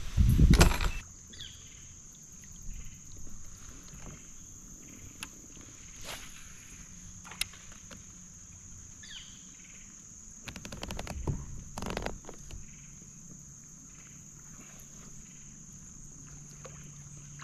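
Quiet creek ambience with a steady high-pitched insect drone, broken by a heavy knock in the first second, scattered clicks and a quick run of ticks with another knock about eleven to twelve seconds in.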